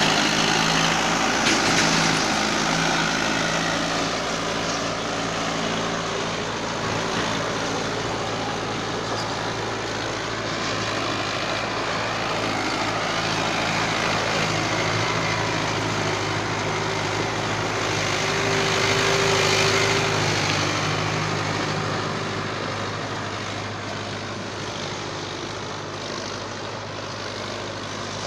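Mahindra tractor's diesel engine running steadily while pulling a plough. It swells louder about two-thirds of the way through, then gradually eases off.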